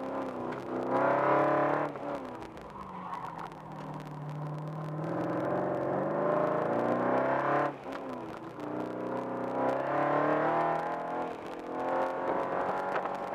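2004 Corvette Z06's LS6 V8 heard from inside the cabin under hard acceleration: the revs climb and then drop away sharply three times, about 2 seconds in, near 8 seconds and near the end, as the throttle comes off.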